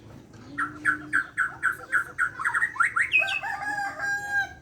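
White-crowned shama (Borneo shama) singing: a quick run of repeated notes, about four a second, then rising whistled sweeps and a few held clear whistles near the end.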